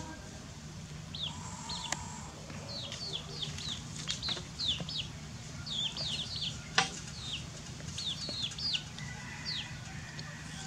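Birds chirping over and over in short, quick notes that fall in pitch. A single sharp click comes about two-thirds of the way in, over a steady low hum.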